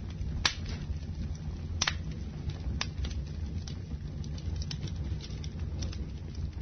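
Wood campfire burning: a steady low rumble with sharp crackles and pops every second or so, the loudest about half a second in and again near two seconds in.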